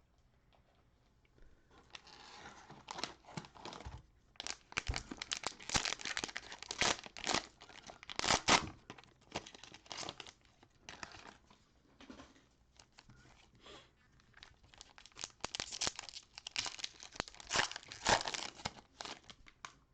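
Plastic cellophane wrapper of a basketball-card cello pack being torn open and crinkled, in two stretches of crackling: one from about two seconds in to about eleven seconds, another from about fifteen seconds to near the end.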